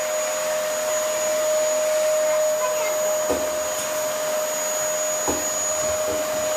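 Vacuum cleaner motor running steadily with a high whine, with a few light knocks from the nozzle being pushed around.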